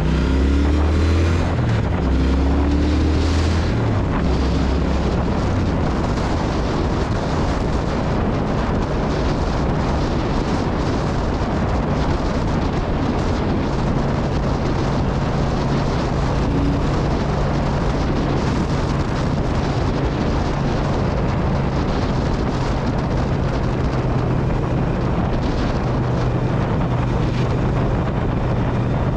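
Triumph Speed Twin parallel-twin motorcycle engine revving and stepping through a few gear changes in the first several seconds. It then runs at a steady cruise under heavy wind rush on the microphone.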